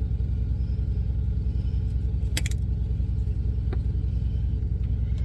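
Semi truck's diesel engine idling, heard inside the cab as a steady low rumble with an even pulse. A single sharp click about two and a half seconds in, and a fainter one later.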